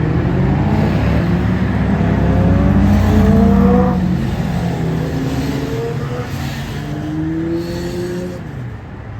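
Motorcycle engine accelerating hard, its pitch climbing in several rising runs, each broken off by a gear change. It is loudest about a third of the way in and then fades.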